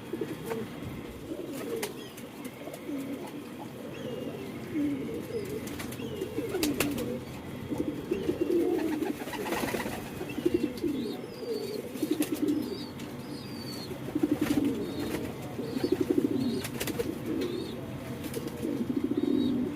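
Domestic pigeons cooing, several birds overlapping in a near-continuous chorus, with faint high chirps and occasional sharp clicks.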